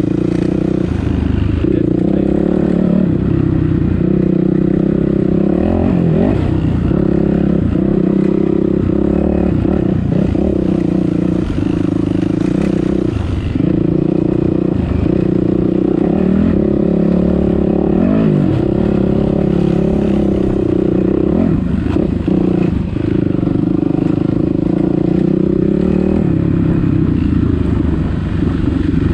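Dirt bike engine working under load, the throttle opened and closed every few seconds so the revs dip and climb again, with some clatter of the bike over rough ground.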